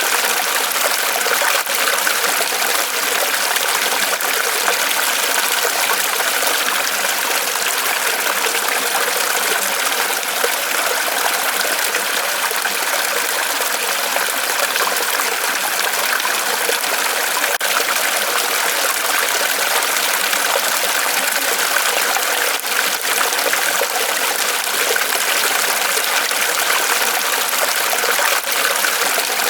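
Small waterfall of water trickling and splashing steadily down from a tree trunk.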